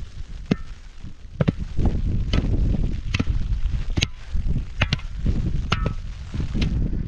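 Repeated chopping strokes of a hand tool, about one a second, each a sharp hit, some with a brief ring, over a steady low rumble.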